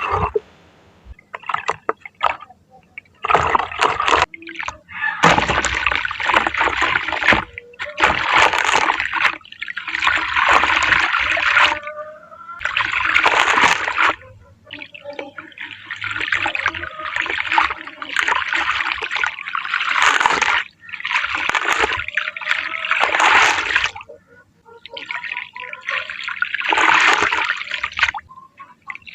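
Grainy, crumbly shaped pieces being crushed into water, making repeated wet crumbling and splashing bursts a second or two long with short pauses between them.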